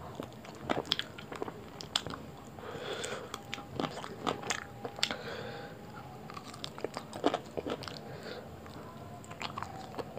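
Close-miked eating: a man chewing a hand-fed mouthful of roti and chicken curry. Irregular wet mouth clicks and lip smacks come several times a second.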